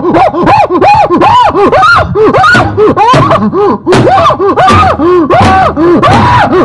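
Loud, rapid shrieking cries from several voices, overlapping, each cry arching up and down in pitch, several a second without a break.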